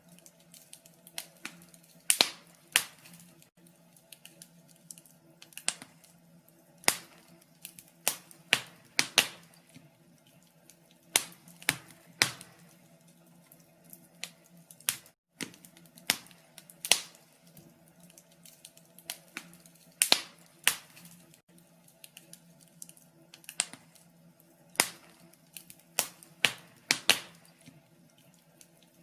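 Wood fire crackling in a fireplace: irregular sharp pops and snaps, one to three a second, some much louder than others.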